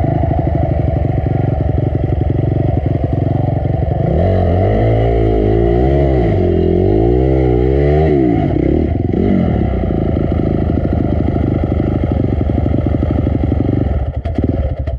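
Honda CRF250 dirt bike engine running hard, revving up and down repeatedly in quick swells, with some clattering. The engine sound drops away sharply near the end.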